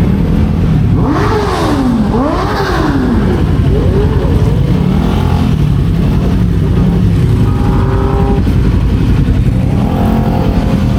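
Kawasaki Z400's parallel-twin engine revving, its pitch rising and falling sharply several times in the first few seconds, then running more evenly with gentler swells over a heavy low rumble.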